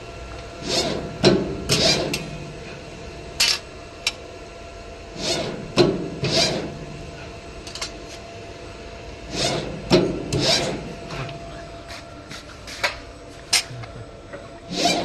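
Small electric press brake running through repeated bending cycles: a steady motor hum, with pairs of short, noisy bursts about every four to five seconds as each stroke works the sheet metal.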